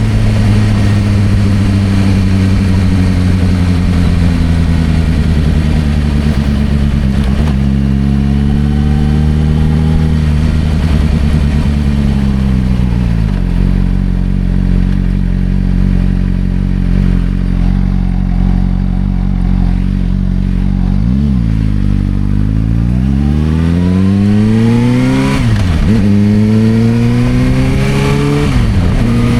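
Suzuki GSR600 inline-four running through a Dominator aftermarket exhaust. It slows down as the revs fall for about thirteen seconds, then settles near idle with one quick blip. Near the end it pulls away, climbing in revs with two gear changes.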